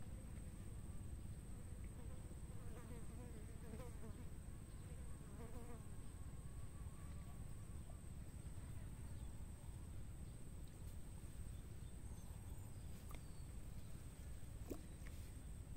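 Faint outdoor ambience: a steady, high-pitched insect drone over a low rumble.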